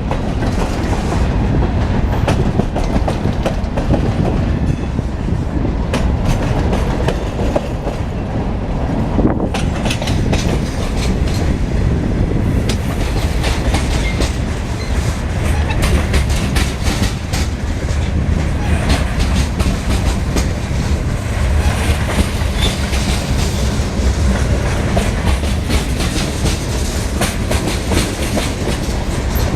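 A freight train's cars rolling past with a steady rumble, the wheels clicking over the rail joints again and again.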